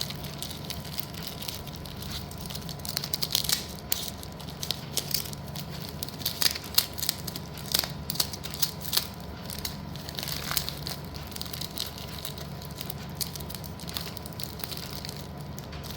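Broken black slate pieces being handled in their packaging: irregular crinkling, crunching and small sharp clicks.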